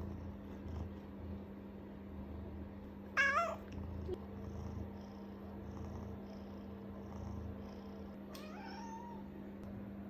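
Domestic cat meowing twice: a loud, wavering meow about three seconds in and a fainter, lower meow near the end.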